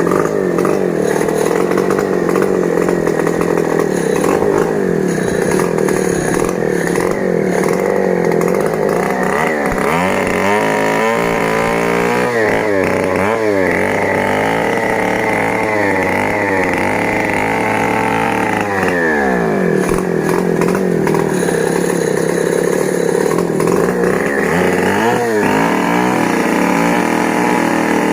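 Stihl MS 070, a large two-stroke chainsaw, running at high revs while sawing timber. Its engine pitch drops and climbs back several times, mostly between about ten and twenty seconds in and again near the end.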